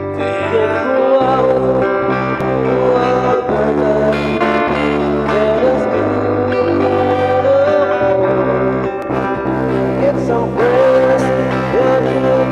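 Music: guitars and bass playing an instrumental passage, with a lead melody line that slides and bends between notes over steady held bass notes.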